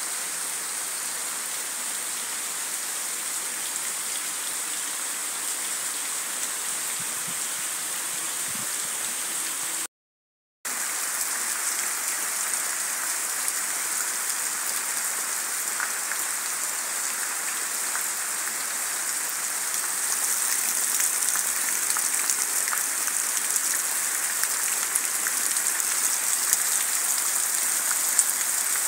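Heavy tropical rain pouring steadily on trees, leaves and waterlogged ground: a dense hiss with scattered drop ticks. It cuts out for about half a second around ten seconds in, then returns and grows a little louder in the last third.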